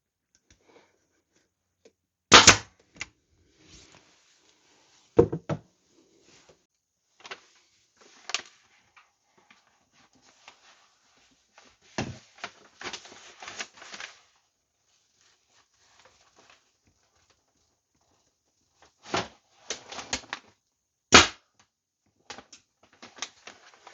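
Hand staple gun driving staples through upholstery fabric into a motorcycle seat base: several sharp snaps a few seconds apart, with rustling and handling of the fabric between them.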